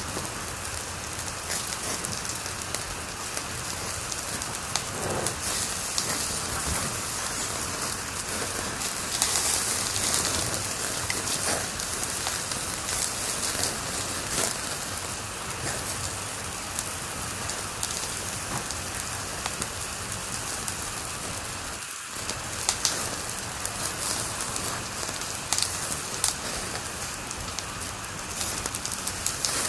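Wood fire crackling in a fireplace: a steady hiss thick with small sharp pops and snaps, cutting out for an instant about three-quarters of the way through.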